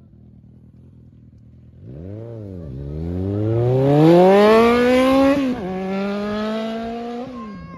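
Suzuki Bandit 1250's inline-four engine idling, then blipped once before revving hard under full throttle with a steadily rising pitch. About five and a half seconds in the pitch drops sharply as it shifts up, pulls again briefly, then eases off near the end.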